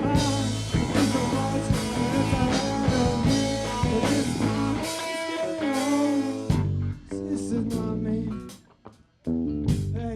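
Live rock band playing an instrumental passage: electric guitar with bending notes over bass and drums. Near the end the band cuts out for under a second, then comes back in together.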